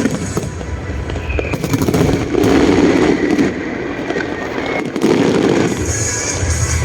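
Aerial fireworks bursting and crackling, with a dense run of small crackles and two heavier swells of bursts, about two and a half and five seconds in.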